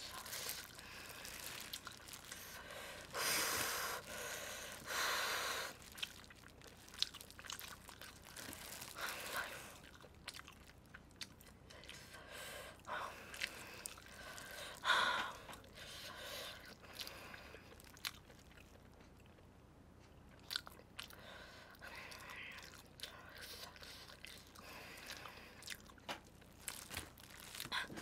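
A person biting and chewing sauced grilled chicken drumsticks close to the microphone: soft, wet chewing with scattered small clicks, a little louder a few times.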